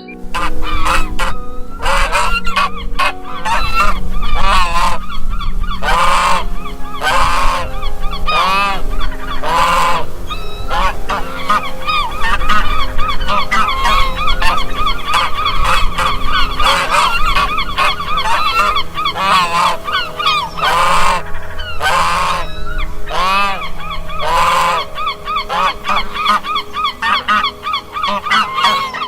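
A flock of birds calling at once: many short, overlapping calls repeating throughout, over a low steady rumble.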